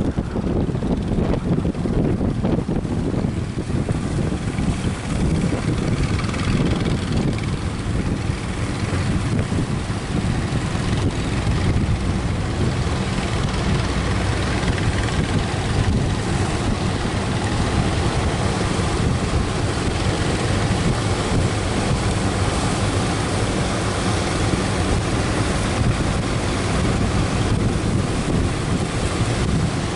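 Strong wind buffeting the microphone over a boat's engine running steadily, with waves breaking.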